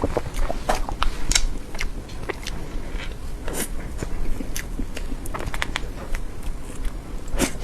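Close-miked eating of soft cream cake: chewing with irregular wet mouth clicks, the loudest at about three and a half seconds and near the end.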